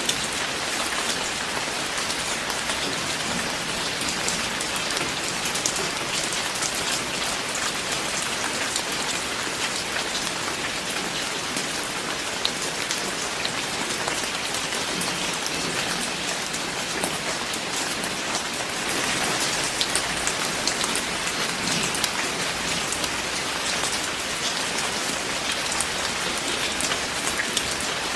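Steady heavy rain falling on a surface, a dense hiss of many fine drop patters with no thunder heard.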